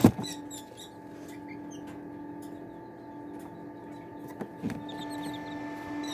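Tiny Serama and bantam chicks peeping in short, scattered high chirps over a steady hum. A loud knock right at the start and two lighter knocks about four and a half seconds in.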